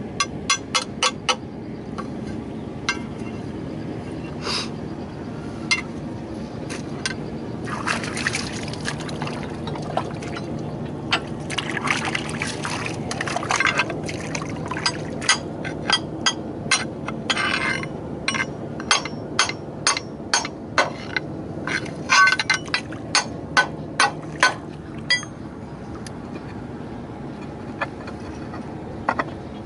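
Metal tools and steel parts of a tractor's steering wheel hub (bearing and circlip) being tapped and handled: quick, irregular sharp clinks and knocks, some ringing briefly, most dense in the middle stretch, over a steady low hum.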